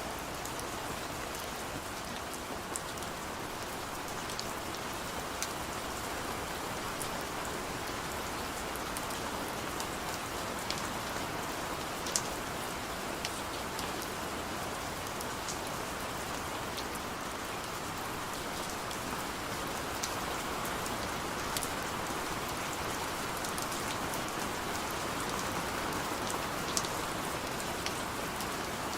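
Steady heavy rain falling, a constant hiss with scattered sharp drop ticks.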